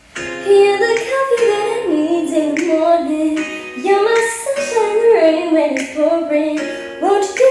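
A woman's voice singing a slow melody with music behind it.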